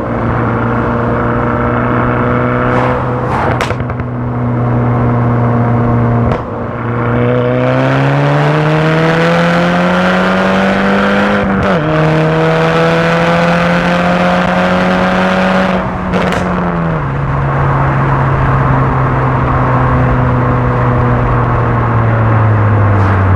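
Interior, on-board sound of a Stage 2 remapped Mk6 VW Golf GTI's 2.0-litre turbocharged four-cylinder under way. The engine note holds steady, rises under acceleration from about seven seconds in, drops at a gear change near twelve seconds and falls again a few seconds later. A handful of sharp exhaust pops and cracks from the remap come through along the way.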